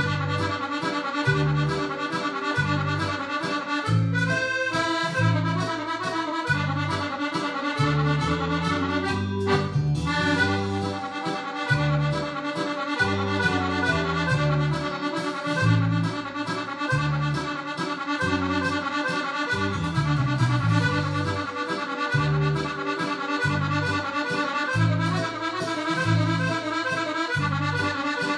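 Accordion playing a mazurka in the Italian ballroom style: a lilting melody in chords over a steady pulse of bass notes.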